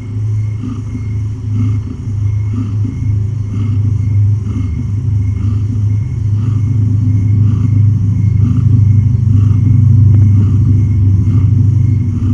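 Domestic cat purring loudly and steadily, close to the microphone, as she is stroked and her belly is felt, with a faint regular pulse a little under twice a second.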